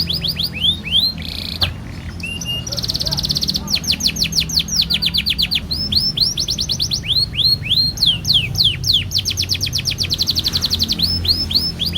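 Canary singing a long, unbroken song: rapid series of repeated downward-sweeping notes, broken by fast rolling trills.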